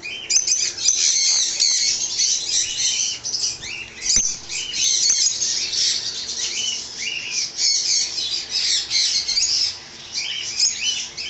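Many caged small pet parrots chirping and squawking together, a dense shrill chatter of overlapping calls with a brief lull near the end.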